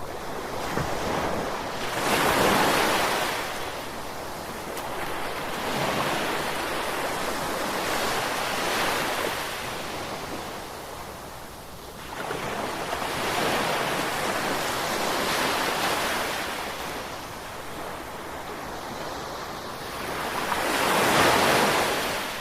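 Gentle sea waves breaking and washing ashore, the rush of surf swelling and fading in slow surges every several seconds, with the loudest surges a couple of seconds in and near the end.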